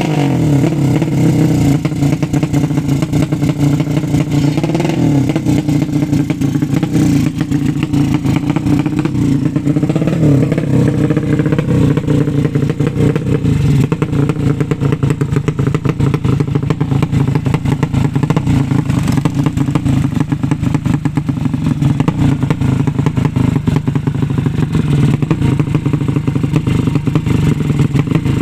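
A 200 cc drag-racing motorcycle engine, just started, running steadily at a fast idle, with brief slight rises in revs about four and ten seconds in.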